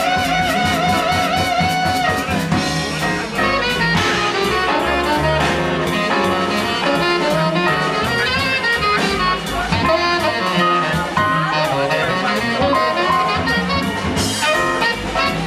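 Live jazz quintet playing an up-tempo instrumental: saxophone and trumpet lines over piano, acoustic bass and a drum kit with steady cymbal strokes. A horn holds one long note for about the first two seconds before the melody moves on.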